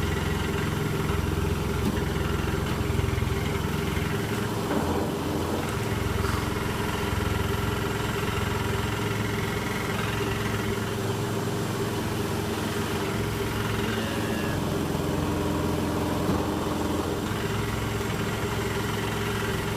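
Electrolux W455H commercial washing machine spinning at speed: a steady, continuous hum with a held motor whine.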